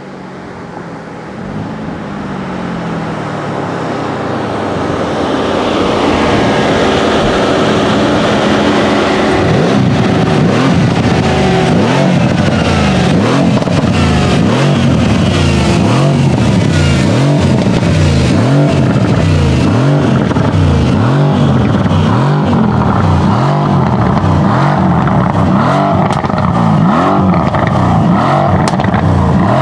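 Mercedes-AMG C63 S's 4.0-litre twin-turbo V8 running steadily. It grows louder over the first six seconds, then holds an even level.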